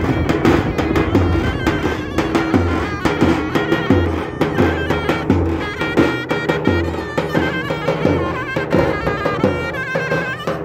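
Zurna and davul playing Turkish folk music: the shrill double-reed zurna carries an ornamented melody of quick stepped notes over regular deep beats of the davul bass drum.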